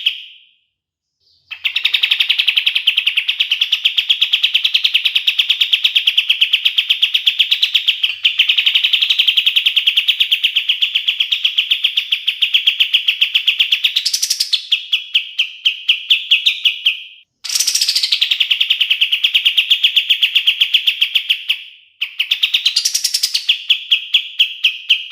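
Kapas tembak singing long, rolling trills of very rapid repeated notes, in phrases several seconds long broken by short pauses. Twice a quick rising note leads into a slightly lower, choppier trill.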